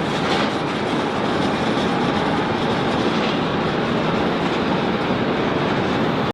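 Steady roar of jet engines at the airport: an even rushing noise with no clear tones, cut off abruptly at the end.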